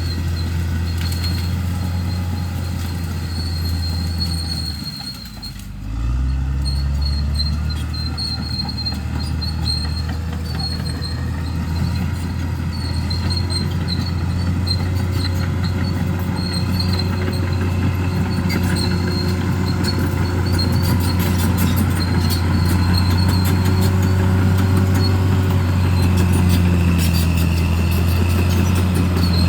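Bulldozer's diesel engine running steadily under load. About five seconds in it drops away briefly, then picks back up with a rise in pitch.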